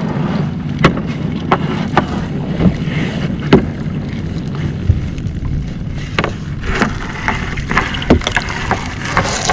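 A small fishing boat's engine runs steadily while a crab gill net is hauled aboard, with irregular sharp knocks and clatter of net and gear against the hull.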